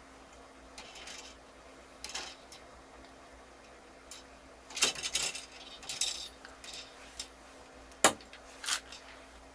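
Scattered light clicks, clinks and rattles of small hard objects being handled, with one sharp click about eight seconds in and a faint steady hum underneath.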